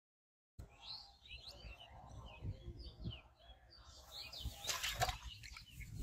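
Small birds chirping and twittering, starting about half a second in, over a low outdoor rumble. A brief, louder scuffling burst comes about five seconds in.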